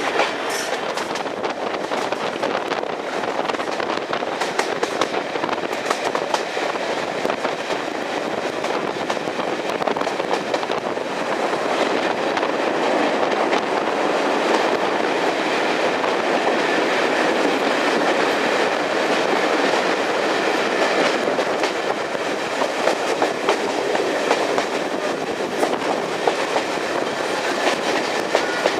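A train running steadily along the track, with a continuous rumble and the wheels clicking over the rail joints, getting a little louder about halfway through.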